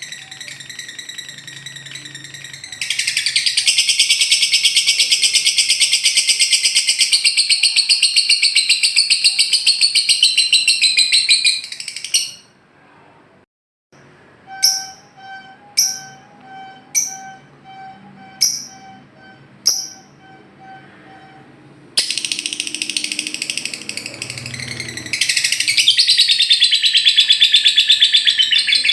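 Lovebird ngekek: long bouts of very fast, buzzy trilling chatter. After a short break in the middle come five short, sharp chirps about a second apart, then another long trilling bout.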